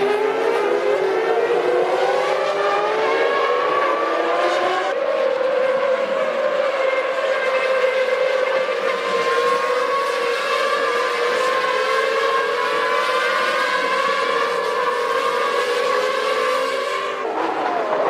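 1998 Formula One cars' 3.0-litre V10 engines running at high revs. The pitch climbs through the gears, then holds high and drifts slowly, with sudden shifts in the sound about five seconds in and near the end.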